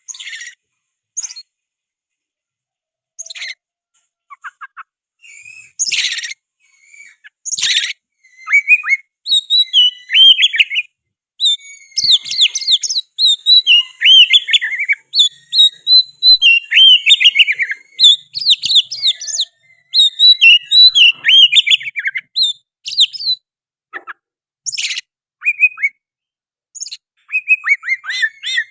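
Oriental magpie-robin (kacer) singing: a few loud, sharp calls at first, then a long, dense run of rapid, varied whistled phrases through the middle, with a few more calls near the end. The song is filled with mimicked sooty-headed bulbul (kutilang) phrases.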